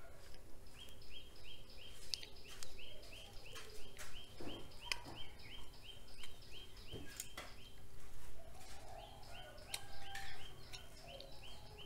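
A bird calling in the background in a fast, even run of short high chirps, about three a second, breaking off for a moment near the middle and starting again. Scattered crinkles and clicks of gold foil are heard as it is peeled off chocolate coins.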